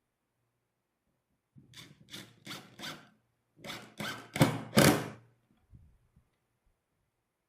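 A hand tool worked in eight back-and-forth strokes on cedar wood, about three strokes a second. The first four are lighter and the last four louder and longer.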